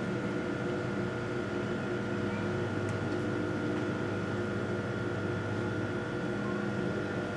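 Steady mechanical hum with several fixed tones over a low rushing noise, like a running motor or air-handling unit, and a faint click about three seconds in.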